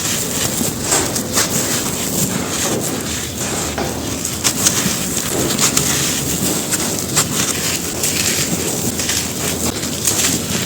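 Lumps of gritty red dirt crumbling and crunching onto a floor: a dense, unbroken run of irregular crackles and gritty crunches.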